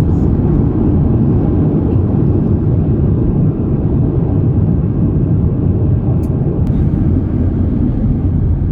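Loud, steady low rumble inside the cabin of an Airbus A350-900 around landing: engine and runway noise heard from a passenger seat. A couple of faint clicks come about six seconds in.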